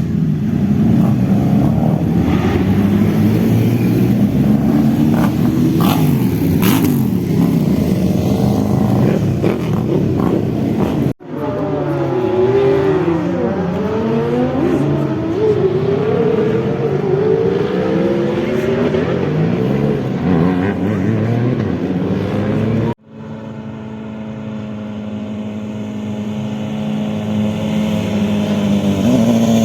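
Motorcycle engines revving and accelerating hard, their pitch sweeping up and down through the gears, in three separate shots cut sharply together. In the last shot an engine grows steadily louder as it approaches.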